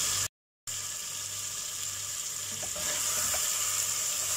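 Mutton and tomato masala sizzling as it fries in a non-stick pot, a steady hiss, cut off briefly by a short silence just after the start. A couple of faint clicks come in the second half.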